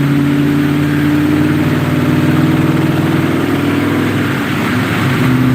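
Ford 4.6L two-valve V8 of a 1999 Mustang GT running steadily on a chassis dyno, holding an even engine note ahead of a full-throttle pull, with a brief dip about four and a half seconds in.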